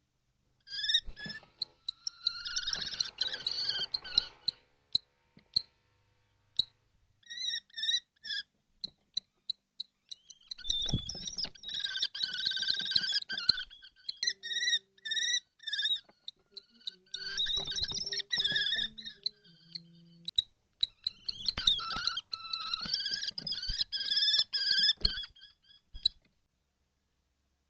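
Kestrels calling in five bouts of shrill, wavering trilled calls with short pauses between them. Scattered scratching clicks run through the calls.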